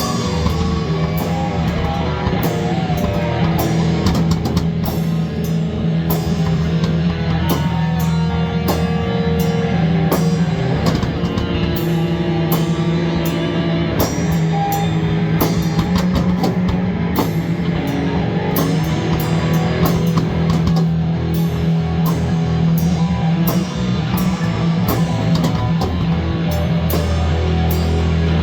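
Loud rock music: a drum kit beating steadily over guitar, with no break.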